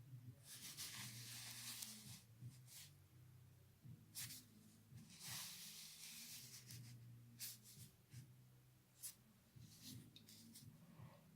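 Near silence: faint rubbing and scraping, with a few short scrapes, over a steady low hum.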